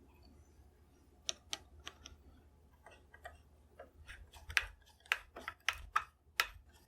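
Wood screws being turned by hand through a rifle buttplate into a walnut stock, heard as a series of sharp, irregular clicks that come faster in the second half. The large screw is stiff to drive despite being waxed, its hole on the small side.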